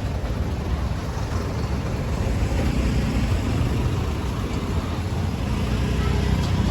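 Street traffic noise with a vehicle engine running close by, getting louder over the last few seconds.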